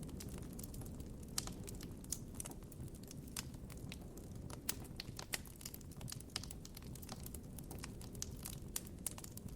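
Campfire crackling: irregular sharp snaps and pops from burning wood, several a second at uneven spacing, over a low steady rumble.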